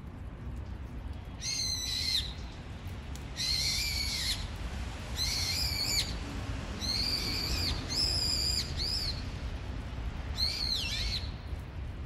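A small bird calling loudly and persistently from a perch. It gives about seven arched, sweeping calls, each under a second, roughly every one to two seconds, with a low rumble underneath.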